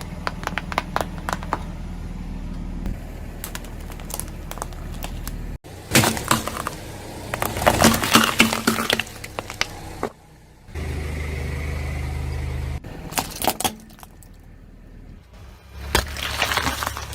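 A car's engine running as its tyres roll over and crush crunchy objects: bursts of cracking and crunching over the engine hum, loudest from about six to nine seconds in and again near the end. The hum cuts off and changes abruptly several times.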